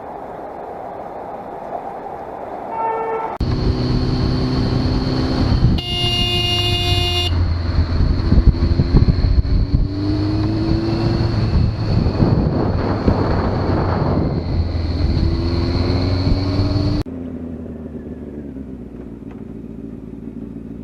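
Road traffic with a vehicle horn honking once for about a second and a half over loud engine and road noise, with short rising revs. The sound cuts off suddenly to quieter road noise near the end.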